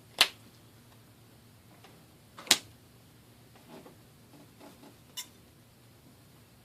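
Three sharp taps spaced a couple of seconds apart, the middle one loudest, with faint rustles between: trading cards being set down and handled on a tabletop.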